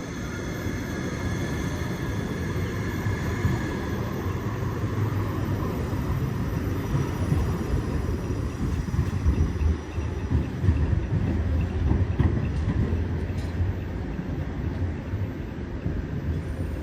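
Siemens Avenio (BSAG GT8N-2) low-floor electric tram running on its rails: a steady low rumble, with a few clicks a little past the middle.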